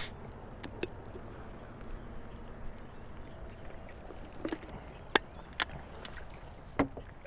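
Quiet on the water in a small boat: a faint steady background with about half a dozen light knocks and clicks scattered through, from gear being handled in the boat.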